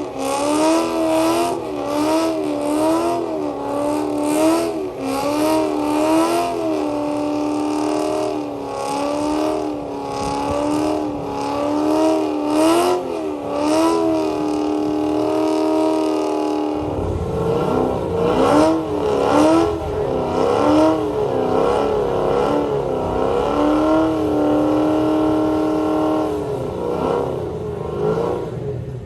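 Car engine held at high revs through a burnout, its pitch wavering up and down about once a second, with a hissing crackle over it. A deeper rumble joins in about 17 seconds in.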